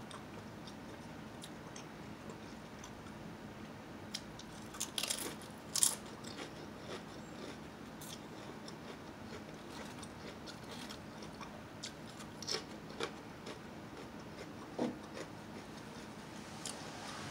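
A person chewing and crunching Lay's potato chips, with scattered crisp crunches, the loudest a cluster about five to six seconds in.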